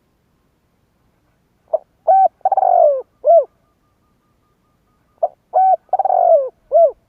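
Spotted dove cooing: two identical call phrases about three and a half seconds apart. Each phrase is a short note, a second note, a longer rolling note that falls in pitch, and a last short note.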